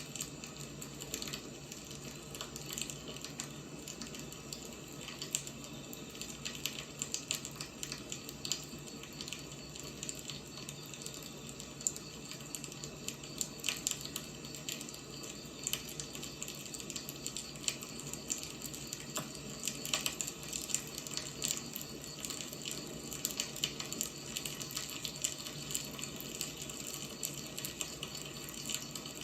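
Firewood burning, with a steady hiss under frequent irregular crackles and pops.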